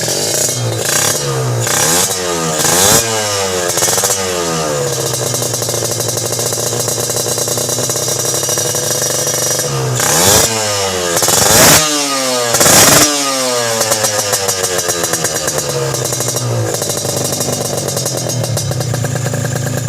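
Kawasaki Ninja RR two-stroke single-cylinder engine breathing through an ARJ big-volume aftermarket exhaust, idling and revved in quick throttle blips. A burst of about five blips in the first four seconds, steady idle, a second burst of about five blips around the middle, then idle again. The exhaust note is crisp and dry.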